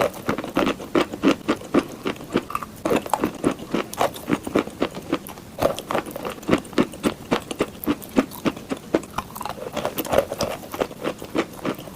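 A person chewing chalk close to the microphone: steady crunching bites, about three a second.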